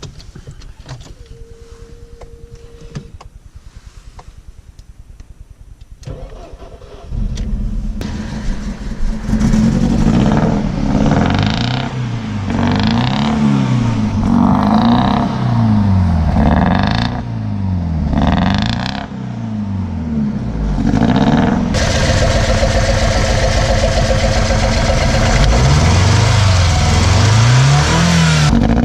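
A Mercedes-Benz W202 AMG engine, damaged after running without oil and with piston 1 missing some of its rings, starts about seven seconds in. It is revved up and down repeatedly, then held at high revs for the last several seconds. Per the title it runs on only three cylinders.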